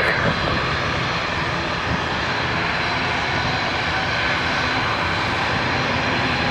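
Airbus A321 jet engines running steadily: a continuous rushing noise with a thin, steady high whine.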